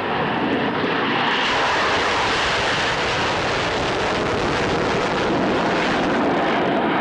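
Aircraft flying past at an airshow display, a loud steady roar that gets brighter and harsher about a second and a half in and eases slightly near the end.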